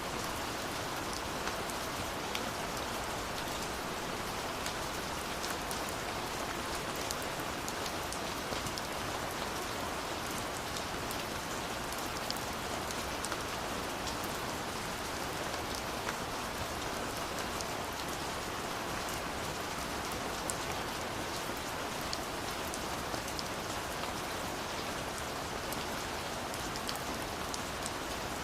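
Steady rain falling, a dense even hiss with the many small ticks of individual drops striking a surface.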